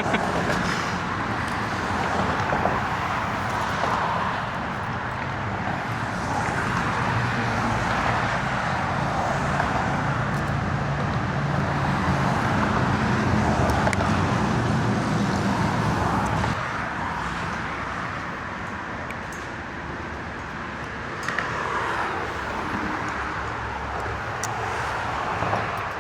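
Road traffic noise: a vehicle's engine hum and tyre noise build and hold, then fade about two-thirds of the way through, with more traffic coming up again near the end.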